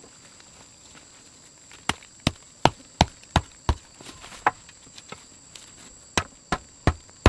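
Chopping: sharp, hard strikes. They start about two seconds in with a run of six at about three a second, then come a few spaced strikes and another quick run of four near the end.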